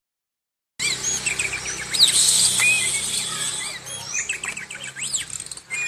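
Oriental magpie-robin (kacer) singing a fast, varied song of whistled notes sliding up and down, mixed with short chirps, over a steady high hiss. It starts abruptly about a second in, after dead silence.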